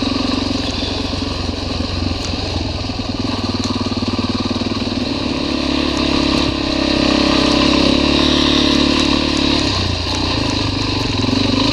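Motorcycle engine running as the bike is ridden along a rough dirt trail. It grows louder about halfway through as the throttle opens, then eases off briefly near the end.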